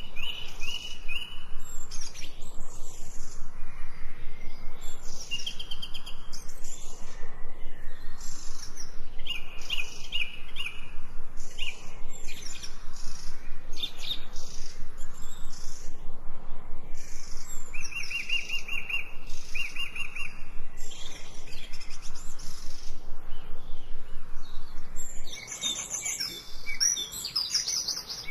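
Birds chirping and singing, with short trilled calls repeated every few seconds and a denser flurry of varied chirps near the end.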